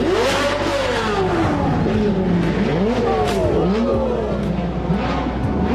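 A car engine revving up and down several times in quick succession, its pitch rising and falling with each rev.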